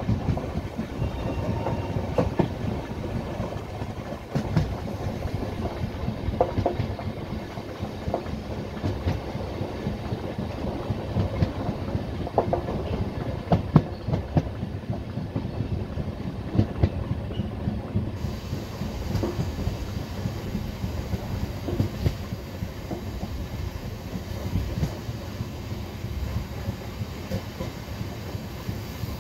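Indian Railways express passenger coaches running over the track, heard from the open door of a moving coach. The wheels keep up a steady low rumble, with irregular clacks and knocks over the rail joints.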